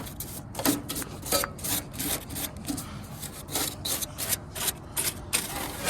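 Stiff hand brush scrubbing back and forth inside a rooftop heating unit in quick rasping strokes, about two to three a second, with a short pause midway.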